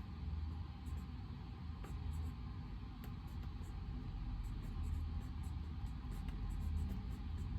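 Study-room ambience: a steady low hum with faint, scattered scratches of a pen writing.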